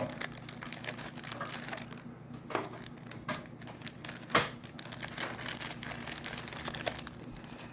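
Packaging of a dryer repair kit being handled, crinkling and rustling, with scattered irregular clicks and knocks; the loudest come about two and a half and four and a half seconds in.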